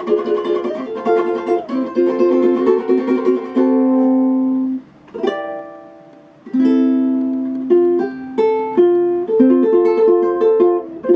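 Solo acoustic plucked-string instrument playing chords, with no singing. Quick strumming gives way to a held chord that stops short about five seconds in, then a single ringing strum, then slower chords that ring out one by one.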